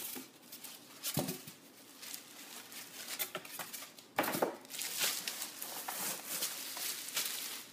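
Handling noises from a canister vacuum cleaner and its packaging: irregular rustling with a sharp knock about a second in, and denser, brighter rustling from about four seconds in.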